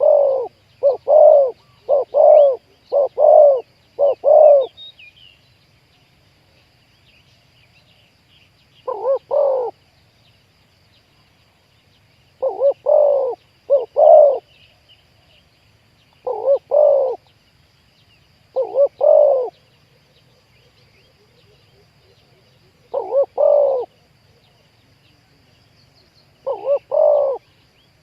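Spotted doves cooing: groups of two or three short, low coos, repeated in clusters every few seconds. There is a quick run of several phrases at first, then single phrases at longer gaps.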